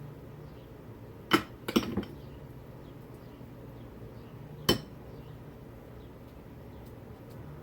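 Kitchenware clinking a few times: a sharp clink about a second in, a quick cluster of clinks just after, and another near five seconds, over a steady low hum.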